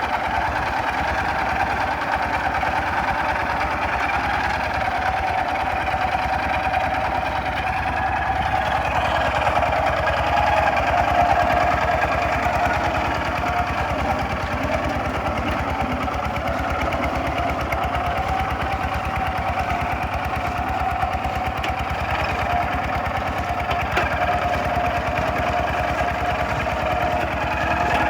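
Single-cylinder diesel engine of a Kubota RT 140 DI walking tractor running steadily under load while plowing, with a rapid, even knock of firing strokes. It gets a little louder about ten seconds in.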